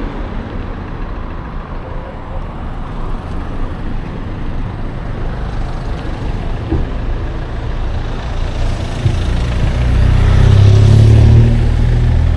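Wind rumbling on an action camera's microphone with road and traffic noise while riding an electric scooter through town. A louder low rumble with a steady hum swells about nine seconds in.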